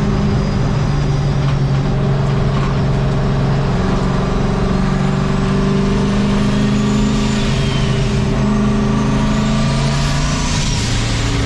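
Turbocharged engine of a 1951 Chevy race truck pulling at high, near-steady revs, with a high whine climbing in pitch in the second half. Near the end the revs fall quickly as the throttle closes.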